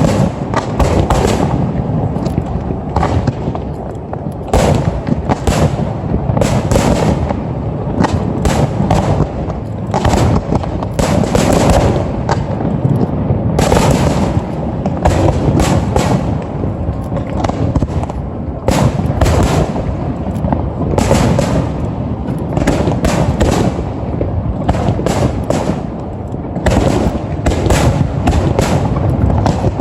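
Aerial fireworks display going off in rapid succession: many overlapping bangs each second over a continuous echoing rumble.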